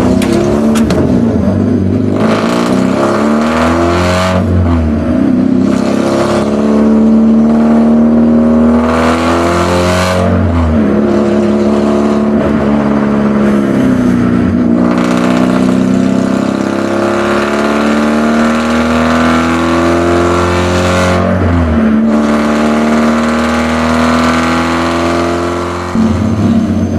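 Race car engine heard from inside the cabin, climbing in pitch under acceleration and dropping back at each gearchange, several times over.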